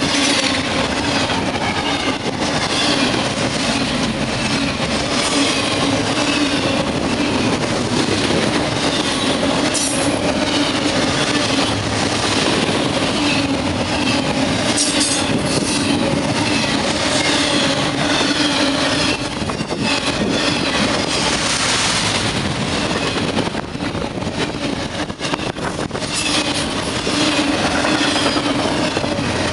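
Norfolk Southern freight train rolling past: a loud, continuous rumble of wheels on rail with a steady drone underneath and frequent short clacks. It eases slightly near the end.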